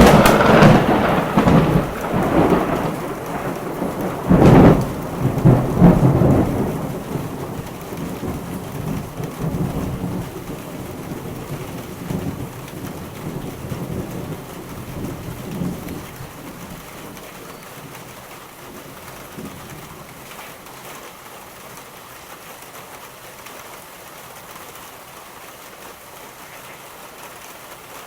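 A thunderclap breaks suddenly over steady rain, with further loud cracks about four and a half and six seconds in, then rumbles away over roughly ten seconds until only the even hiss of rain remains.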